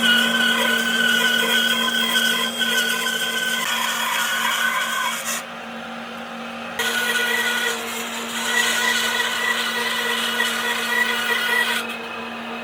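Electric power tool motor running steadily while working wood, its hiss of contact with the wood dropping away twice for a second or so as the motor keeps running.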